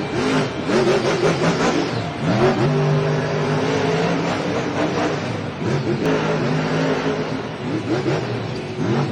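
Monster truck's supercharged V8 engine revving hard, climbing in pitch about four times and holding steady between the climbs.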